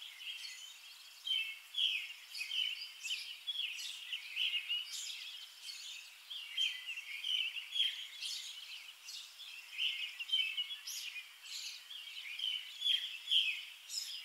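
Songbirds chirping outdoors, a busy run of short high chirps several a second.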